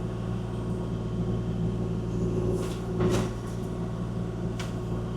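Kubota KX040-4 mini excavator's diesel engine running steadily, with a few short knocks and scrapes from the bucket working the ground about three seconds in and again near the end.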